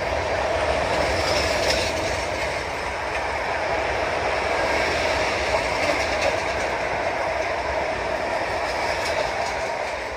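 A train rolling past with a steady rumble of wheels on rail and scattered clicks over the rail joints. It begins to fade near the end.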